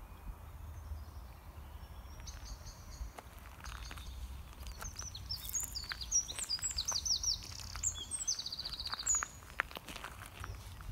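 A songbird singing outdoors, with short high chirps starting about two seconds in and a fast trill near the end, over footsteps crunching on gravel and a steady low rumble.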